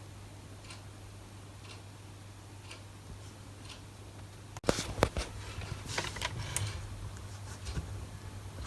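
Faint ticking about once a second over a low hum, then after a sudden cut a run of loud sharp clicks and knocks from handling work, the loudest about five seconds in.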